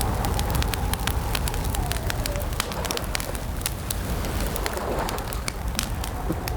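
Campfire crackling and popping over a steady low rumble, with a faint drawn-out wavering tone behind it that fades about two seconds in and returns near the end.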